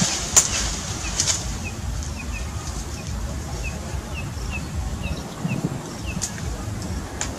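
A bird chirping: short, high, slightly falling notes repeated irregularly about two a second, over a low rumble of wind on the microphone. A few sharp clicks stand out, one near the start and one near the end.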